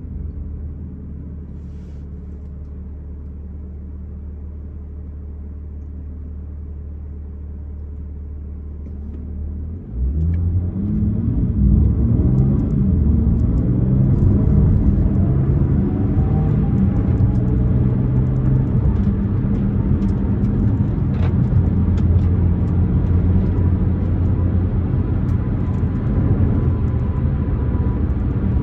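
BMW M4 Competition's twin-turbo inline-six engine running steadily at low revs, then about ten seconds in it gets suddenly louder and the revs climb. It keeps running hard after that, its pitch rising and falling.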